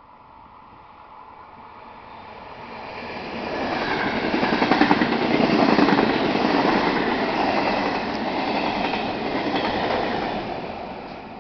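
Regional passenger train pushed by an E464 electric locomotive at the rear, passing close at speed: a rising rush and rumble with wheels clattering on the rails, loudest a few seconds in, then fading as it pulls away.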